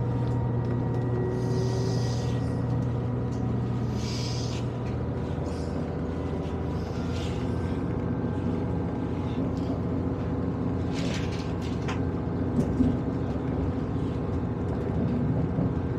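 Cabin noise of a diesel passenger train under way: a steady rumble with engine tones, the strongest low tone dropping away about five seconds in. A few short hisses and a brief knock near the end sit over it.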